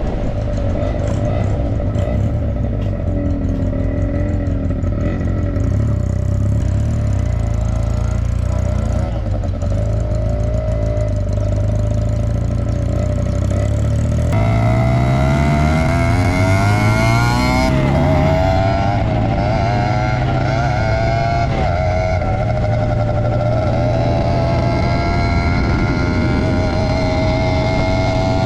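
Suzuki RG50 Gamma's 50 cc two-stroke single-cylinder engine running, revved up and down a few times about halfway through, then held at a steady higher idle.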